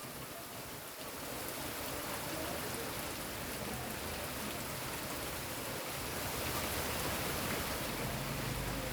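Heavy rain falling steadily, an even hiss, with a faint low hum underneath that swells slightly near the end.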